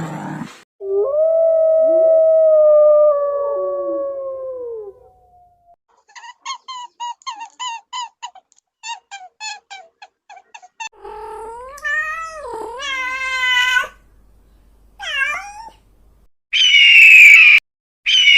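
A string of different animal calls played one after another. First comes a long, slowly falling howl, then a run of quick short yips, then a wavering call. A loud, shrill screech follows near the end.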